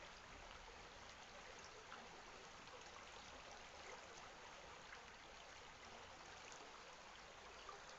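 Faint, steady running water of a stream, an even rush with small trickling splashes flecked through it.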